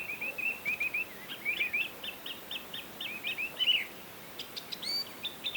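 Birds chirping: quick runs of short, repeated chirps, then a few sharper, separate notes near the end.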